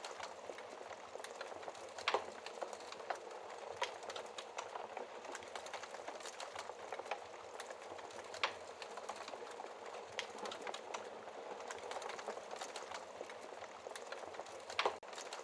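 Wood fire crackling in a fireplace: a steady hiss of burning with frequent small crackles, and sharper pops about two seconds in, about eight seconds in and near the end.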